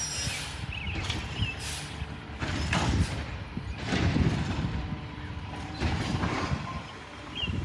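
Peterbilt recycling truck with a McNeilus side-loader body running with a steady low rumble. Several loud, sudden noisy bursts come over it, about a second or so apart.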